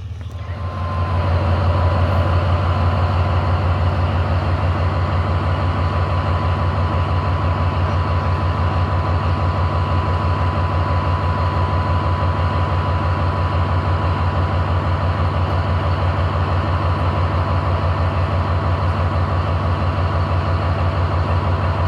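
Engine of a metre-gauge train running steadily: a loud low hum with a fast even pulse that swells over the first second or two, with a thin steady whine above it.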